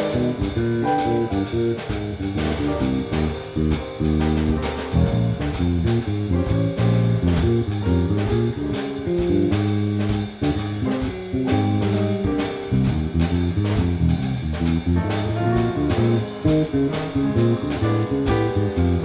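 Live jazz band playing an instrumental passage: guitar lines over walking bass and drum kit, with regular cymbal strikes.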